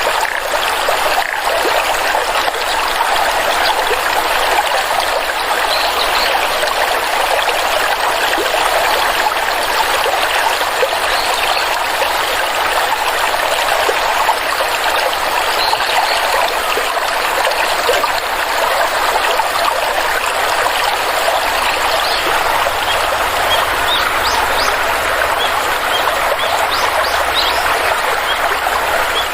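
Water stream flowing over rocks, a steady rushing trickle with no breaks.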